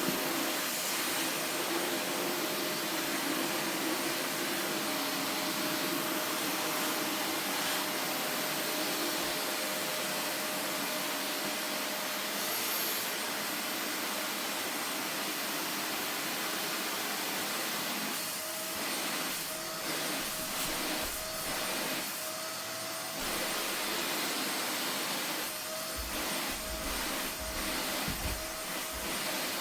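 Vacuum cleaner running steadily, with a thin steady whine over its rushing air. About two-thirds of the way in, the sound starts to waver and flutter as the suction changes.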